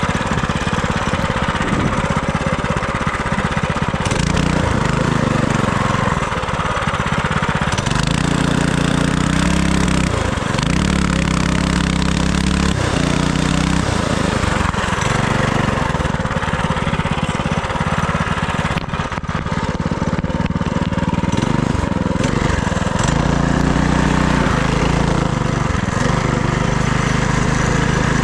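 FRP GMB100 minibike's small single-cylinder engine running under way, revving up and easing off again and again as the throttle is worked, with steady wind rush on the microphone.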